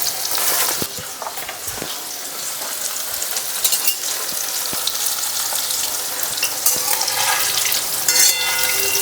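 Flour-and-cornflour-coated baby corn pieces deep-frying in hot oil in a kadai: a steady crackling sizzle with a few short knocks.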